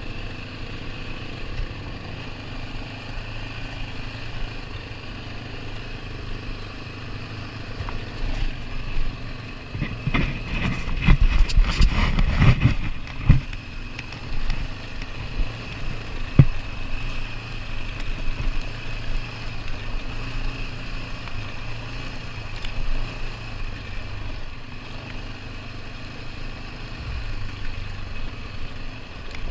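ATV engine running steadily while riding a rough trail. A stretch of louder knocks and rattles comes about ten seconds in, and a single sharp knock follows a few seconds later.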